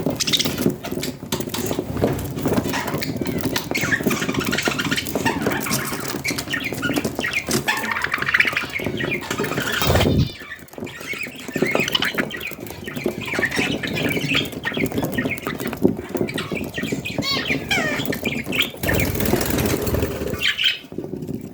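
Budgerigars chattering and warbling, with many short wavering chirps throughout. Brief bursts of noise come about ten seconds in and again near the end.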